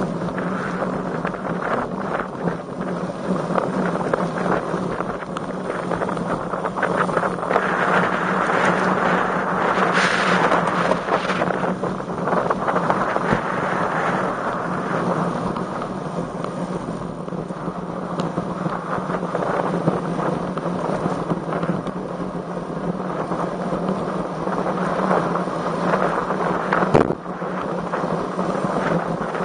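Strong wind buffeting the microphone of a camera on a moving road bike, a steady rushing noise that swells and eases. A single sharp knock comes near the end.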